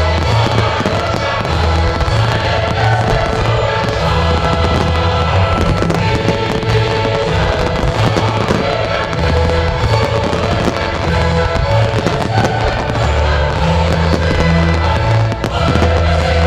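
Fireworks display: many shells and cakes bursting and crackling in quick succession, over the display's loud music soundtrack with a heavy bass line.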